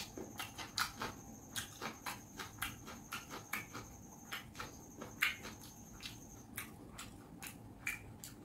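Close-up wet chewing and mouth smacking while eating fish curry and rice, heard as a quick, irregular run of soft clicks, several a second.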